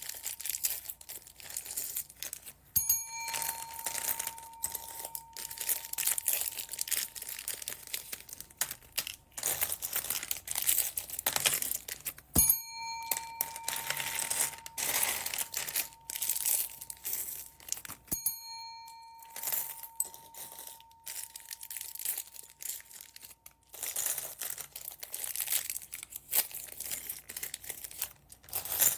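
Plastic bead bags crinkling and rustling as they are handled and opened. A short bell-like ringing tone sounds three times, each dying away over a few seconds.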